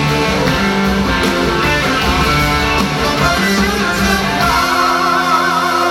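Live blues-rock band playing loudly, with electric guitars to the fore. A little over four seconds in, the band settles on a sustained chord and a long held note with a wide vibrato rings out over it.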